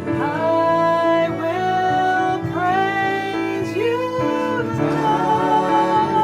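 A song sung over instrumental accompaniment, probably a worship song. It moves through a run of long held notes, each sliding up into pitch, and near the end one long note wavers with vibrato.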